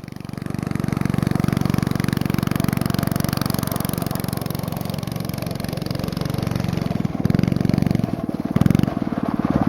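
Small 4 hp single-cylinder go-kart engine running at full throttle, pulling the kart up a hill through its torque converter. It holds a steady, rapid note, with a brief louder swell near the end.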